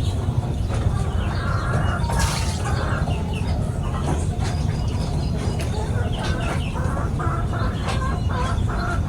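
Pipit (small sparrow-like birds) chirping, mixed with chickens clucking in short repeated notes, over a steady low rumble.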